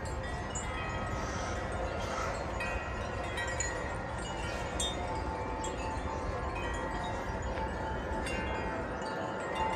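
Several tuned wind chimes ringing in gusty wind, with many overlapping sustained tones and fresh strikes. A low wind rumble runs under them.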